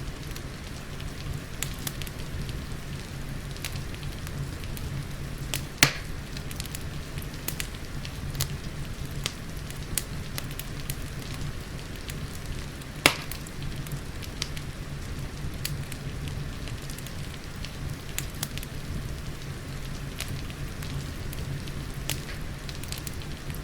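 Wood fire crackling in a fireplace, with scattered small snaps and two louder pops, about six and thirteen seconds in, over a steady low rumble and a soft hiss of rain.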